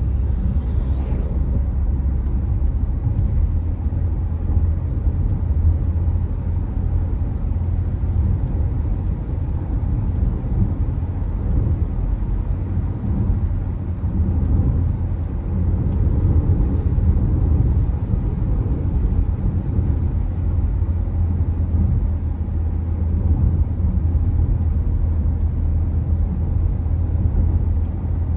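Car driving along a road: a steady low rumble of engine and tyre noise, with a few faint light ticks.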